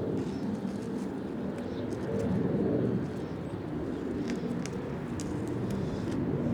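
Wind buffeting the microphone: a steady low rumble that swells and eases, with a few faint sharp ticks in the second half.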